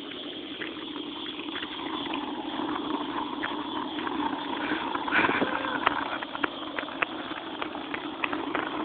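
Bicycle rolling over a rough, bumpy road: a steady rumble of tyre noise with frequent small clicks and rattles.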